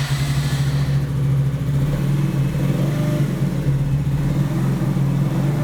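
Motorq Torq Blizzard 50 scooter's small four-stroke single-cylinder engine running steadily just after being started on fresh oil. It sounds normal and healthy, with everything in order after the oil change.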